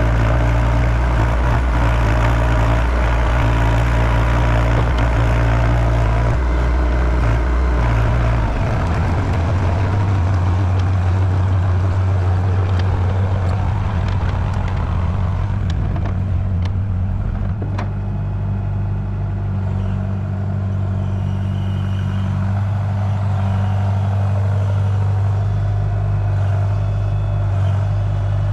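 Excavator's diesel engine running steadily, with its engine speed changing about a third of the way in and again a little past halfway.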